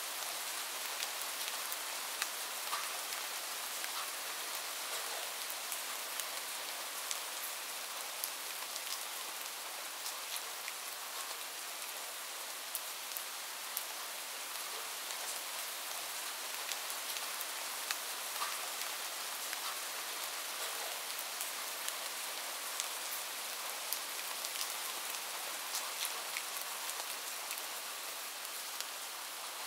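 Light rain falling steadily: an even hiss of rain with many scattered, distinct drop ticks.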